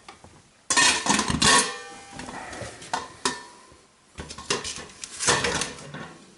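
Sheet-metal fireplace parts clanking and scraping as ash is dealt with, in two loud bouts with ringing metallic tones and a couple of sharp knocks between them.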